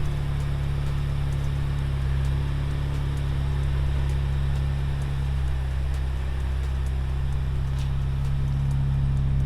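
A 2016 Honda Civic's 1.5-litre turbocharged four-cylinder engine running at a steady idle, its low hum even throughout.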